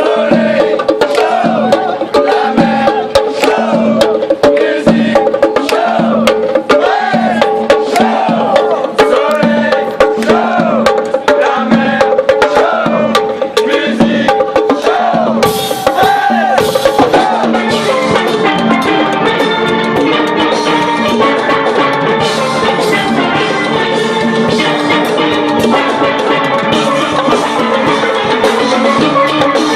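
Steel band playing: steel drums (pans) sounding melody and chords over a steady percussion beat.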